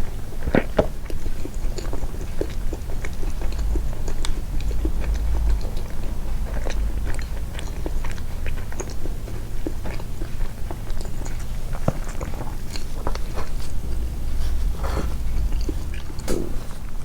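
Close-miked, amplified chewing and biting of soft homemade sweets: many small, irregular mouth clicks over a low rumble.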